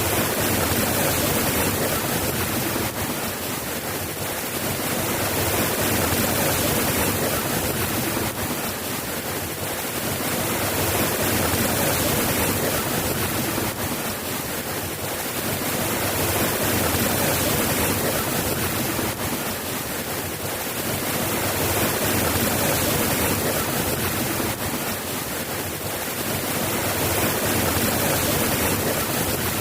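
Steady rain falling, an even hiss that swells and eases gently every five or six seconds.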